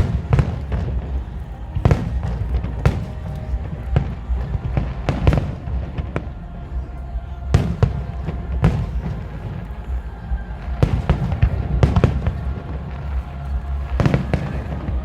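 Aerial fireworks display: shells bursting in quick, irregular succession, sharp cracks over a continuous low rumble.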